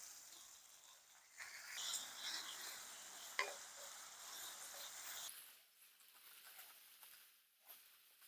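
Stir fry faintly sizzling in a hot pan. The sizzle swells about a second in, with a sharp click in the middle, and cuts off abruptly a little past halfway, leaving only faint scattered ticks.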